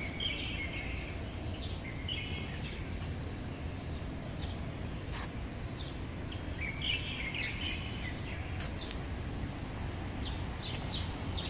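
Several small birds chirping and calling in short, scattered bursts over a steady low rumble of outdoor background noise.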